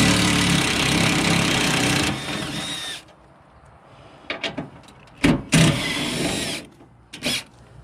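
Power drill running in two bursts: a long one of about three seconds, then a shorter one of about a second, with a few sharp knocks between them.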